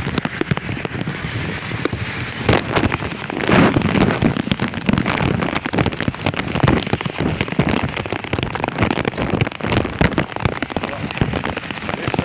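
Rain falling in a shower, a dense, irregular pattering of drops.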